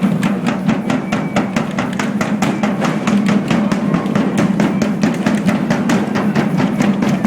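Marching band drums beating a quick, steady rhythm.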